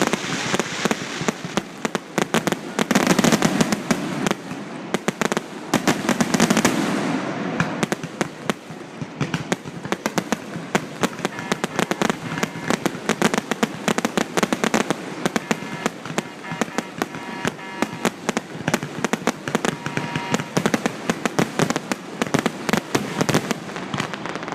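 Fireworks finale: a rapid, continuous barrage of bangs and crackles, with heavier bursts about three seconds and six seconds in.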